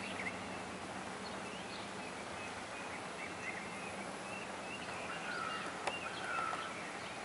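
Steady outdoor background hiss with faint, scattered chirps of small birds, and a single sharp tap about six seconds in.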